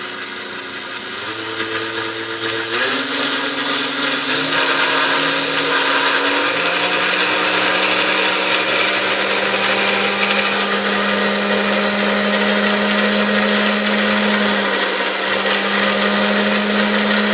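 Freshly restored Hamilton Beach Model D stand mixer's motor running, switched up through its speeds in steps over the first few seconds, then holding a steady high speed. The restorer notices from this run that its speed control needs adjusting.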